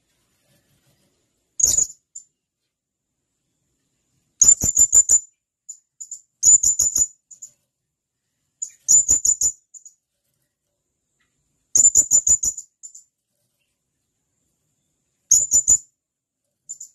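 Blue-crowned hanging parrot giving sharp, high-pitched calls: about six short bursts of rapid notes, each burst a few seconds apart.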